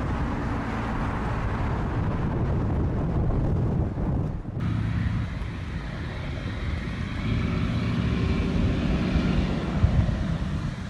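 Steady rumbling aircraft engine noise from an airliner, with an abrupt change in character about four and a half seconds in.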